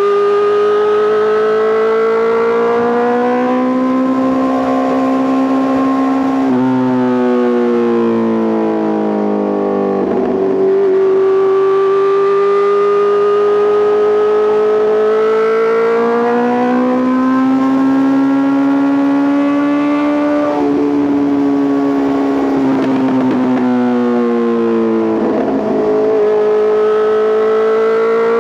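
Honda CBR650R's inline-four engine running through an Arrow Pro Race titanium full exhaust while ridden. Its pitch climbs and falls with the throttle, and it drops and jumps sharply a few times, near seven, ten and twenty-six seconds in, as gears change.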